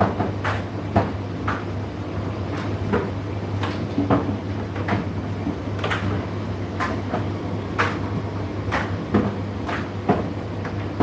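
Indesit IDC8T3 condenser tumble dryer running: a steady low motor hum under irregular knocks and taps from the load tumbling in the drum, about one or two a second.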